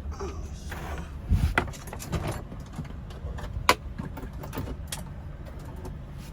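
Several clicks and knocks of things being handled inside a semi-truck cab over a steady low hum.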